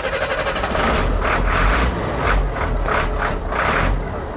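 Semi truck's engine running with a steady low rumble and uneven louder pulses.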